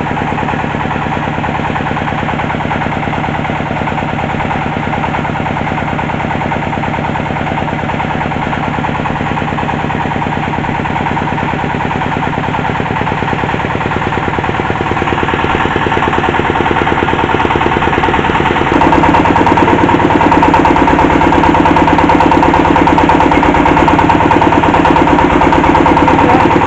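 Engine of a hydraulic well-drilling rig running steadily with a fast even beat. It grows louder from about halfway and picks up sharply about three-quarters of the way in.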